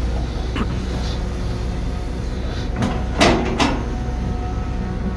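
Heavy construction machine's diesel engine running steadily, with several sharp metal clanks and knocks, the loudest two about three seconds in.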